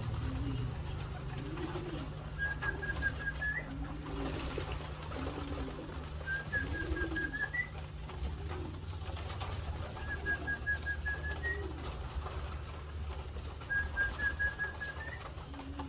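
Domestic pigeons cooing over and over, low calls that rise and fall. A run of quick, high chirps ending in an upward flick recurs about every four seconds.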